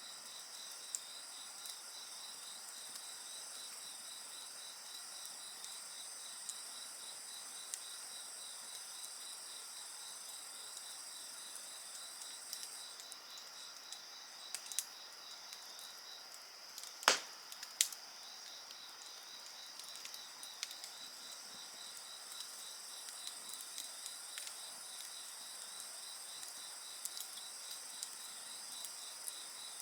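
Insects chirping steadily in several high trills, one of them pulsing and pausing for a few seconds midway, over a wood fire crackling with scattered small clicks. Two sharp pops from the fire about seventeen seconds in are the loudest sounds.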